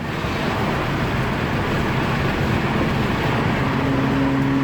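A car engine being restarted: it starts and runs with a dense, noisy sound, then about three and a half seconds in settles into a steady idle hum.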